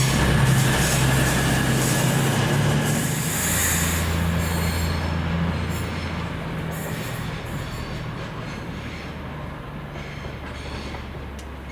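Train running past on the rails, wheels rumbling with a brief high squeal about three seconds in, the sound fading steadily as it moves away.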